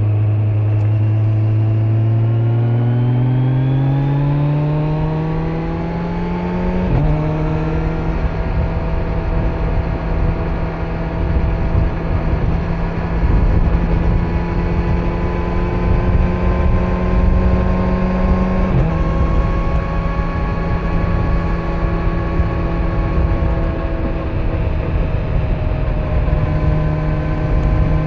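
Kawasaki Z900 inline-four engine accelerating under a rider, rising in pitch for a few seconds before a quick dip at an upshift about seven seconds in. It then cruises at a steady pitch, with another short dip at a gear change near nineteen seconds, over wind and road rush.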